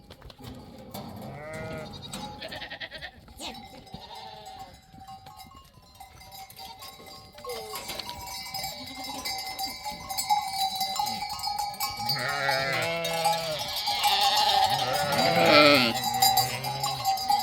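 A flock of sheep bleating, a few calls at first and then many at once, growing louder in the second half, with a livestock bell ringing steadily among them.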